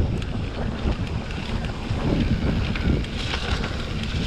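Wind buffeting the microphone over the steady rumble and rattle of a mountain bike riding down a muddy, wet trail.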